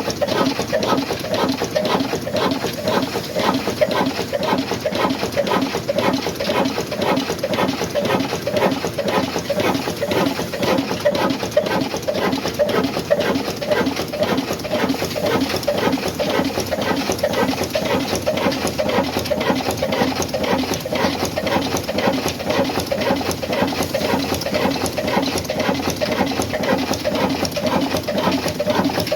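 Old black Ruston diesel engine running steadily, with a fast, even mechanical clatter.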